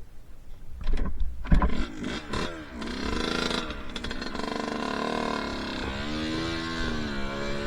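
Two-stroke dirt bike engine revving up and down over and over, its pitch rising and falling about once a second, after a few sharp knocks in the first couple of seconds.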